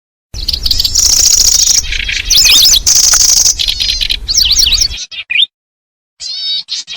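Kecici belalang (lanceolated warbler) calling: rapid high chirps and buzzy trills, with a low rumbling noise underneath for the first five seconds. After a short pause, short chirped phrases resume near the end.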